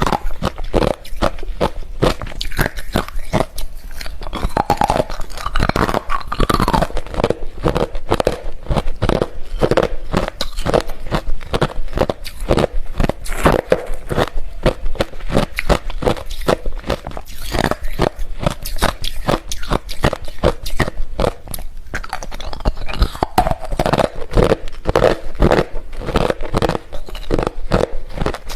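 A person chewing and crunching hard refrozen crushed ice close to the microphone, in a dense run of rapid crunches with no pause.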